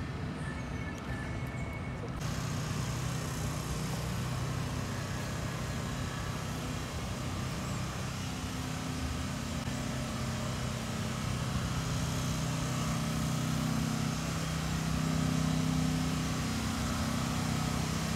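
Street noise with a motor vehicle's engine running nearby, a low steady hum that grows stronger about halfway through.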